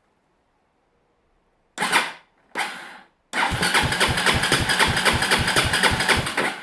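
Electric starter cranking the KTM Duke 620 LC4's big single-cylinder engine: two short blips of the starter, then about three seconds of steady cranking with a regular chug of about six a second. It stops suddenly near the end without the engine running on.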